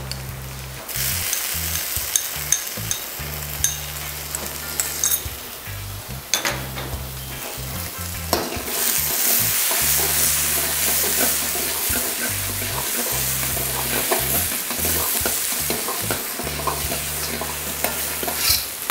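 Chopped tomato, onion, ginger and garlic sizzling in hot coconut oil in a kadai, with a steel ladle scraping and clinking against the pan as it is stirred. The sizzle jumps up about a second in, as the tomato goes into the oil, and grows louder again about eight seconds in.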